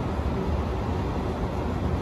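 Steady low running noise of a train, even throughout, with no distinct beats or tones.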